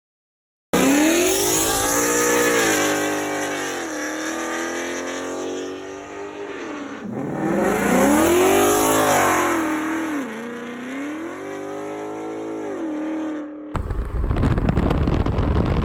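A car engine being revved, its pitch climbing and falling back twice, settling in between. Near the end it cuts suddenly to a loud, rough, steady noise.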